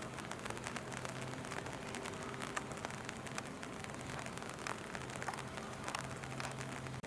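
Steady rain falling, with many scattered drops tapping sharply close by, over a faint low hum.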